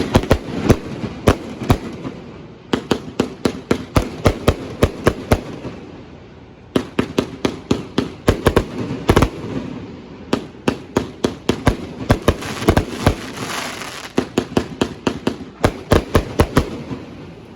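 Consumer fireworks going off in rapid volleys of sharp bangs, several a second, with short lulls between volleys and a crackling hiss about two thirds of the way through.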